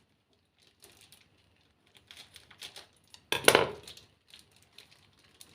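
Kitchen handling sounds: light scattered clicks and taps, then one loud clatter of kitchenware being set down or knocked about three and a half seconds in.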